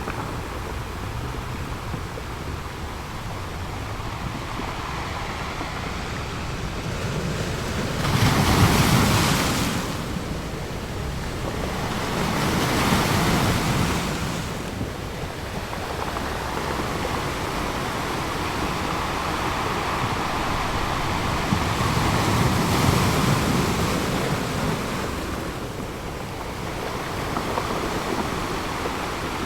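Ocean waves breaking on a shore, a steady wash of surf with waves swelling and crashing about 8 seconds in, again about 13 seconds in, and again about 23 seconds in.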